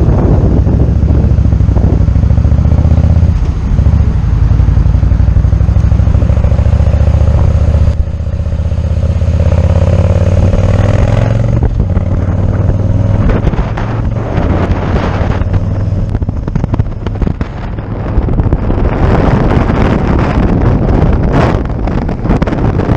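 Motorcycle engine running steadily at speed, a low hum. About halfway through, wind starts buffeting the microphone in gusts.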